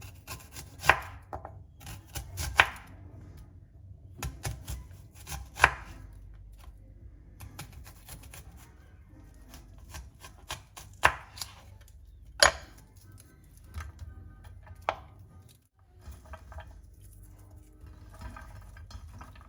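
Kitchen knife cutting food on a cutting board: sharp knocks at uneven intervals, the loudest about a second in, near three, near six, near eleven and near twelve and a half seconds, with lighter taps between them.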